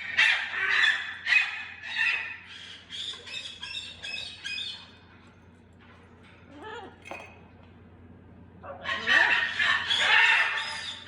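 Baby parrots calling and squawking in a dense run of short, high calls, falling quiet for a few seconds and starting up again loudly near the end.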